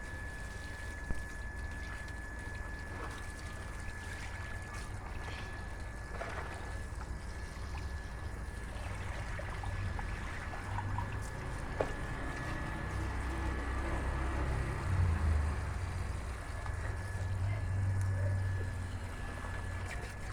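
Water trickling, over a steady low rumble that swells louder a few times, with a faint high whine held at one pitch throughout.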